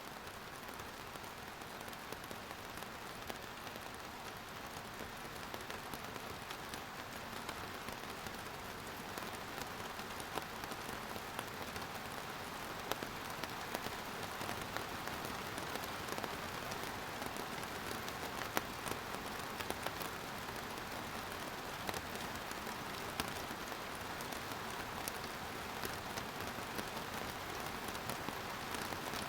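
Steady rainfall pattering on a surface, a dense even hiss with many small drop ticks, growing a little heavier after the first several seconds.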